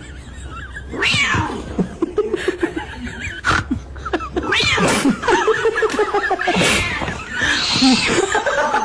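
A cat caterwauling: a string of drawn-out, wavering yowls, several of them falling in pitch, with a person laughing alongside.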